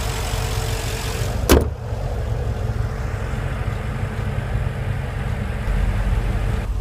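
The 2014 Porsche Panamera GTS's 4.8-litre V8 idling, then a single sharp thump about one and a half seconds in. After the thump the engine's higher hum stops and only a low rumble remains.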